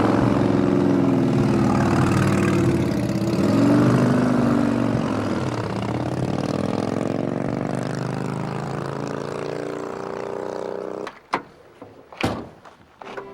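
A motor vehicle's engine revving up and pulling away, slowly fading and dropping in pitch over several seconds. It falls away near the end, and a few sharp taps follow.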